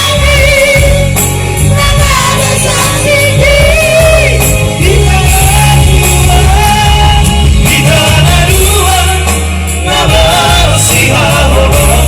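Batak trio song: voices singing a wavering melody over a band accompaniment with a steady bass line.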